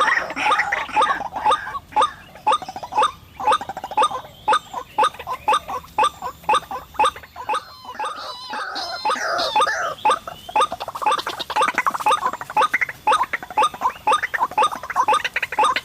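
White-breasted waterhen (ruak-ruak) calls: a long run of short, rapidly repeated notes, several a second, with a stretch of different, gliding notes about eight seconds in. It is the bird's call used to lure waterhens to a snare.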